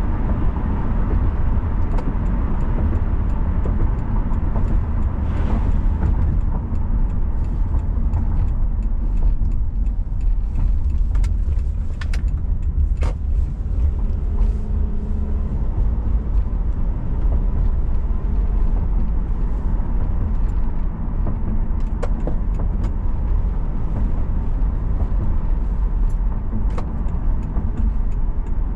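Car driving, heard from the vehicle: a steady low road and engine rumble with tyre noise, broken by a few faint clicks.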